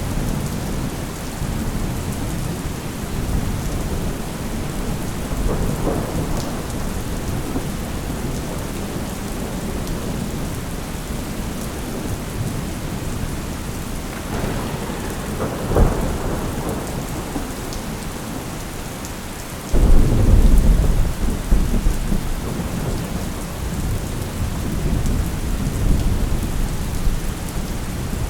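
Thunderstorm: steady rain with rumbling thunder. A short sharp thunderclap comes a little past halfway, and a few seconds later a loud low rumble of thunder breaks in suddenly and fades slowly.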